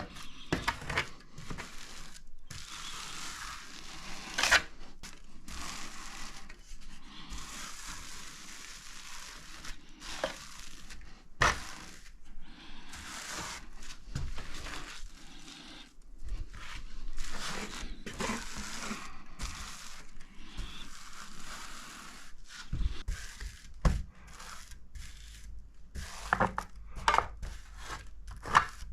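Burning firewood crackling and snapping in a wood-burning stove-fireplace: irregular sharp pops over a steady hiss, with a few louder snaps.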